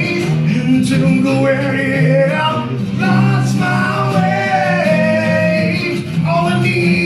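Live acoustic country-rock song: a male voice holds long sung notes, without clear words, over strummed acoustic guitar.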